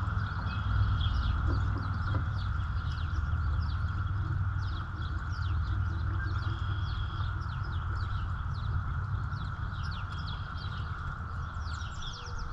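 Gas line antifreeze pouring steadily from a bottle into a lawnmower's fuel tank over a low rumble. Many short, quick, falling bird chirps are scattered throughout.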